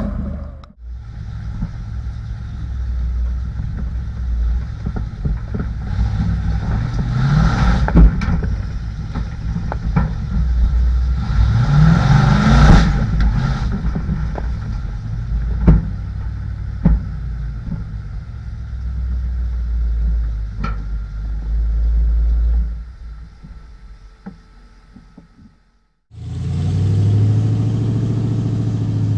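Old Ford mud truck's engine revving hard in pulls, with scattered knocks and clatter. It fades out about three-quarters of the way through, and after a cut the engine runs steady.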